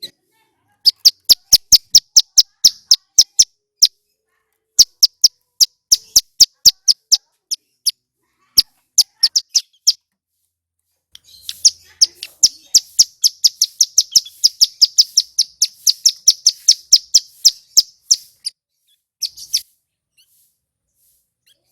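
A ciblek gunung (mountain prinia) singing in rapid runs of sharp, high chipping notes, several a second. Three short runs with gaps come first, then one long, dense run that lasts about seven seconds, and a last brief note.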